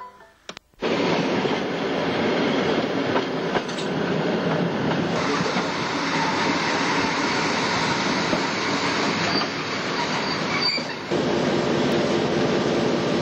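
Ferrovie del Sud Est diesel railcar running along the track, wheels and running gear giving a steady rumble that starts abruptly about a second in. A brief high wheel squeal comes in about ten seconds in.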